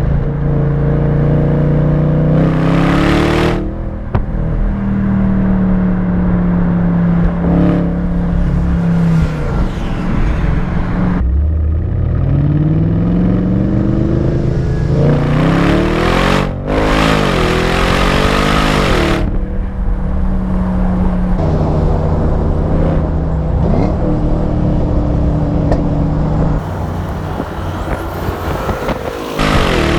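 Bentley Continental GT V8 S's twin-turbo 4.0-litre V8 running through its exhaust, pulling hard several times. Its pitch climbs, then drops back at gear changes, with the hardest run near the middle.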